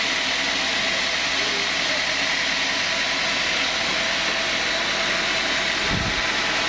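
Sawmill saw machinery running steadily, with an even noise and a faint steady whine, and a brief low thump about six seconds in.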